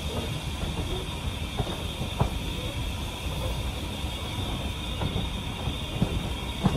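Train coach running along the track, heard from a carriage window: a steady low rumble of the wheels with some hiss above it, and a few sharp knocks, one about two seconds in and two near the end.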